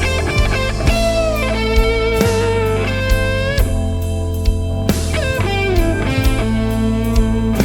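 Electric blues band playing an instrumental passage: an electric guitar solo with bent notes over bass and drum kit, no vocals.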